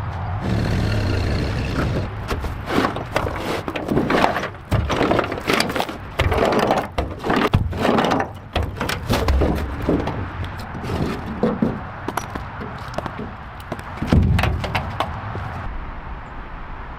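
Irregular knocks, clanks and rattles of hard objects being handled and struck, several a second at times, over a low steady rumble. The clatter thins out near the end.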